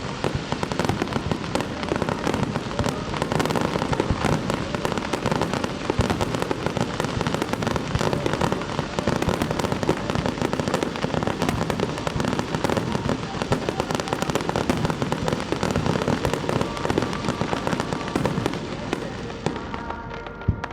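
Fireworks in a dense, continuous barrage, with shell bursts and crackle overlapping so closely there are no gaps, dying down near the end.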